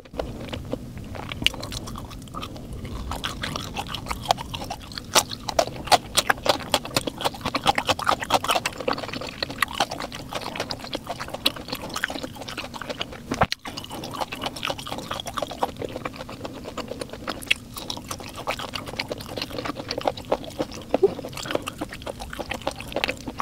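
Close-miked mukbang chewing: a woman eating fried foods from a bún đậu mắm tôm platter, with a dense run of small mouth clicks as she chews.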